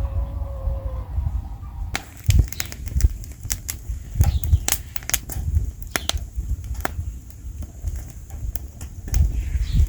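Wood fire crackling, with many sharp, irregular pops starting about two seconds in, over a steady low rumble. A short bird call fades out in the first second.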